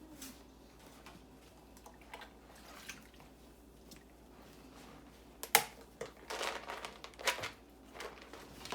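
Bath water splashing and dripping as a cat is washed, quiet at first, then a sharp knock about halfway through followed by several short bursts of splashing.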